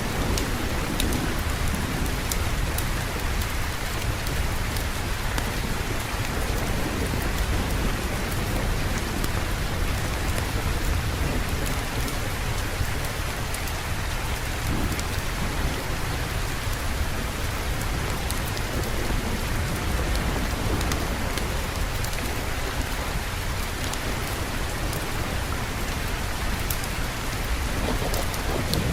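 Steady rain falling, with a low, continuous thunder rumble underneath and scattered light ticks of drops.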